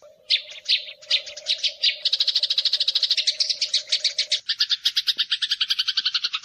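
Eurasian tree sparrows fighting: a fast, agitated chatter of short high chirps, several birds at once, starting in scattered bursts and running together into an unbroken rapid stream from about two seconds in.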